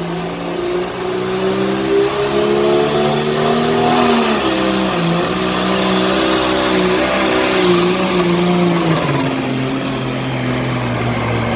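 Case pulling tractor's engine working hard under load as it pulls the sled, its pitch climbing, dipping and surging, then dropping to a lower steady note about nine seconds in.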